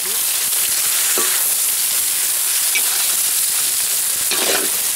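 Jackfruit pieces sizzling steadily as they are stir-fried in a metal wok, with a metal spatula scraping the pan a few times.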